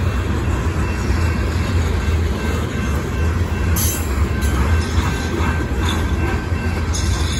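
Grain train's covered hopper cars rolling past, a steady low rumble of steel wheels on the rails. Brief higher hissing bursts come about four and seven seconds in.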